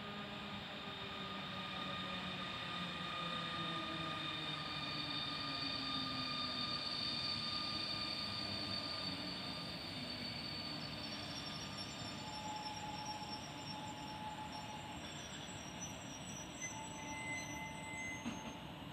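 A train moving along the track: steady rolling noise from the wheels, with high squealing tones held over it and lower tones that slowly fall in pitch, swelling to its loudest near the middle and easing off after.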